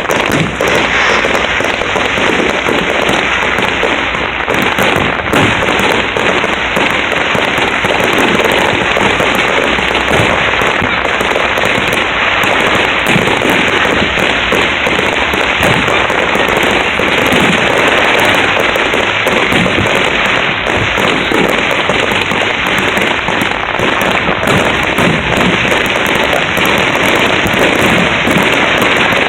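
Aerial fireworks going off in a dense, unbroken barrage of bangs and crackle.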